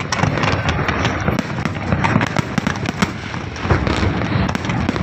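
Fireworks display: a dense, continuous run of bangs and crackles, many per second, with no pause.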